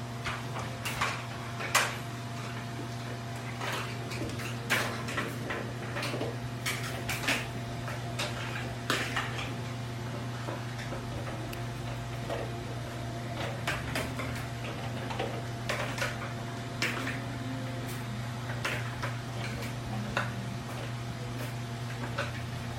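A steady low hum with irregular light clicks and knocks on top of it, the sharpest about 2 seconds in and again about 5 seconds in.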